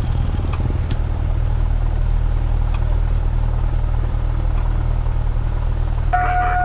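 Cessna 172R's four-cylinder Lycoming engine idling on the ground, a steady low drone. Near the end a steady high-pitched tone comes in over it.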